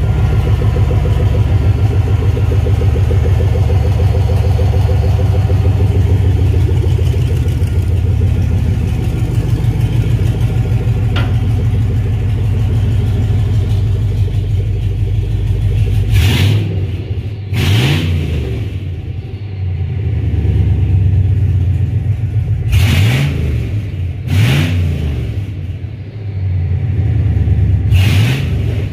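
2001 Chevrolet Suburban's 5.3 L V8 idling steadily with its catalytic converters removed, so it runs a little loud. About halfway through it is revved up and let drop back about five times in quick throttle blips.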